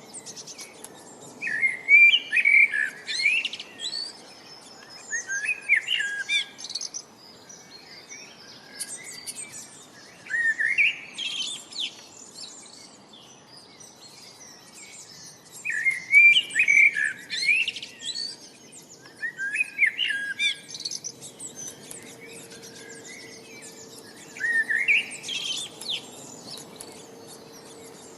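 A songbird singing short, quick warbled phrases, six of them, each about a second or two long and spaced a few seconds apart, over a faint steady background hiss.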